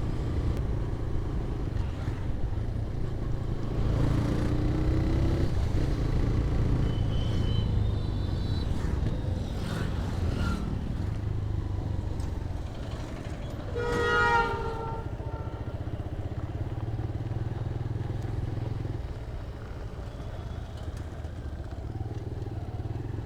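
TVS Raider 125's single-cylinder engine running steadily under way, with road and wind noise. Short vehicle horns sound a few times, the loudest about 14 seconds in.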